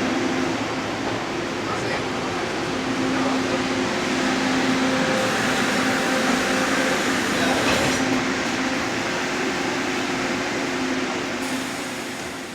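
A TRA E1000 push-pull electric train standing at a station platform, its equipment giving off a steady low hum over a broad rushing noise. The sound fades away near the end.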